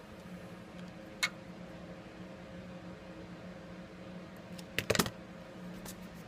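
Small hand-tool clicks and scrapes on a phone's frame while old adhesive is cleared: one sharp click about a second in and a quick cluster of clicks near five seconds. A steady low hum runs underneath.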